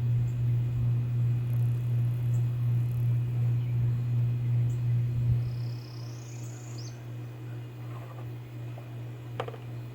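A steady low hum that drops in level about six seconds in, with a faint high rising chirp partway through and a single sharp click near the end.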